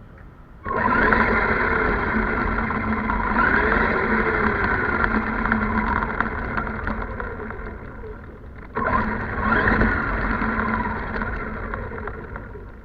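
Electric motor and gears of a 1:12 scale 4WD RC monster truck whining under throttle, in two long runs: the first starts suddenly about a second in, the second about nine seconds in, with the pitch rising and falling as the throttle changes, then fading near the end.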